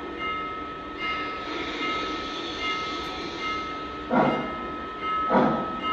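Model steam locomotive 611's onboard sound starting its train away: a steady high tone over a noisy hiss, then slow steam chuffs a little over a second apart in the second half.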